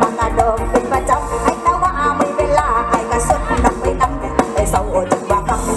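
Mor lam sing band music played loud over a PA system, with a steady driving bass-and-drum beat under a wavering melody line.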